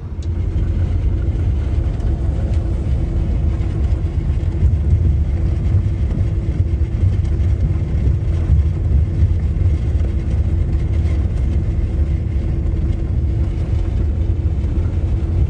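A vehicle driving at highway speed: a steady, loud low rumble of road and engine noise with a steady hum above it.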